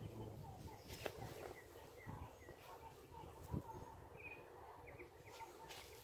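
Faint small birds chirping now and then, with a soft thump about a second in and a louder one about three and a half seconds in.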